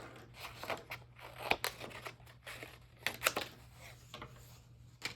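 Scissors cutting paper: an irregular series of snips, a few of them louder, along a line scored by fingernail.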